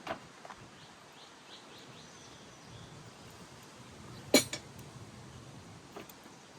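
Metal parts clinking as a car's strut tower bar is handled and fitted: a few faint taps, then one sharp metallic clink about four seconds in.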